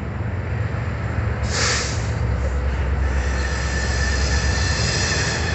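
Freight train rolling past with a steady low rumble, a short hiss about a second and a half in, and its wheels squealing on the rails in several steady high tones from about halfway through.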